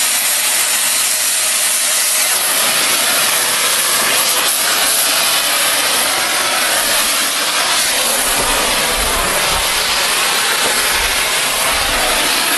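Oxygen cutting torch flame-cutting steel railroad rail: a loud, steady hiss of the cutting jet blowing through the steel, with some low rumbling joining in during the second half.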